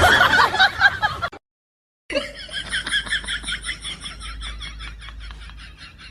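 A short loud burst of voice-like sound, then, after a break, a long run of quick laughing pulses, about five a second, slowly fading.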